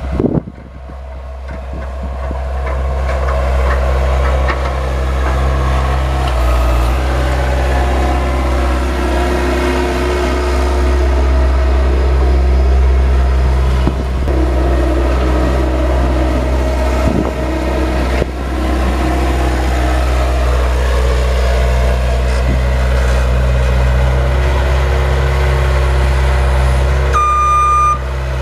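Engine of a snow-plowing vehicle running steadily under load, growing louder over the first few seconds. About a second before the end a reversing alarm starts beeping as it backs up.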